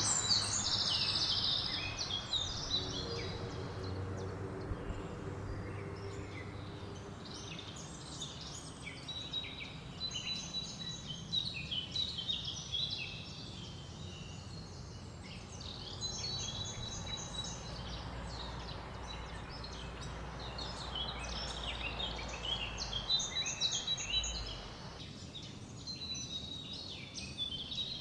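Several small songbirds chirping and trilling over a steady rush of wind through forest leaves. The wind noise drops suddenly near the end while the birdsong carries on.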